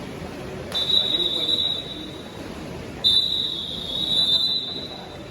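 Referee's whistle: two steady high-pitched blasts, the first about a second long, the second nearly two seconds, over a constant background hubbub.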